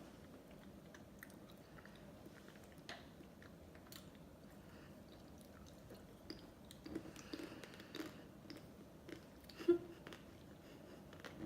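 Mouth sounds of a person eating ice cream: soft, irregular chewing with small wet clicks. There is a louder mouth sound about ten seconds in.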